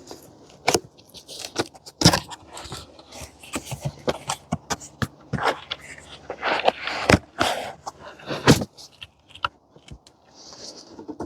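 Cardboard box and packaging being opened and handled: irregular clicks, knocks and scraping, with short stretches of rustling.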